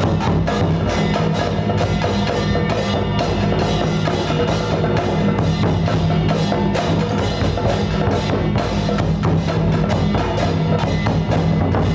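Music with busy, fast percussion: dense wood-block-like clicks and drum strokes over a steady low drone.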